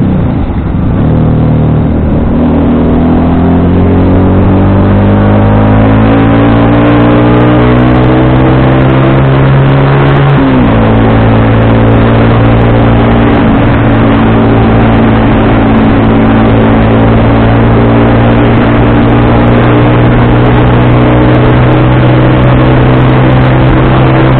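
FKM Victorino 250i V-twin motorcycle engine running on the road, its pitch climbing steadily for about ten seconds, dropping suddenly at a gear change, then holding a steady cruise.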